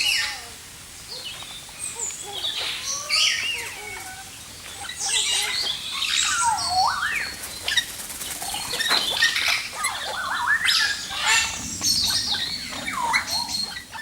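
Many birds calling at once: overlapping chirps and short whistled calls that glide up and down, mixed with harsher, noisier calls.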